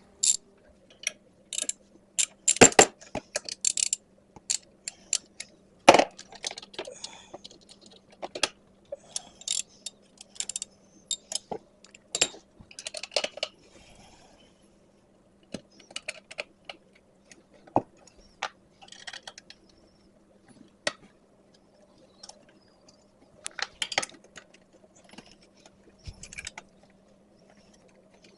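Irregular clicks, clinks and light clatter of hand tools and small metal and plastic parts being handled as a pull-cord recoil starter is taken off a small ATV engine, over a faint steady hum.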